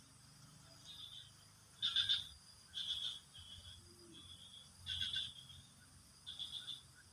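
Frogs calling: short rasping, pulsed croaks repeated about once a second, some louder than others.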